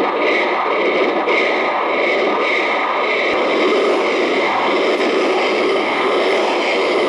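Drawing on paper turned into sound: a steady, dense, scratchy noise that runs without a break.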